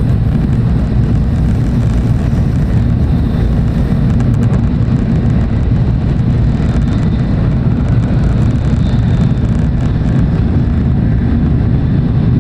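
Steady low rumble of a Tokaido Shinkansen train running at speed, heard from inside the passenger car.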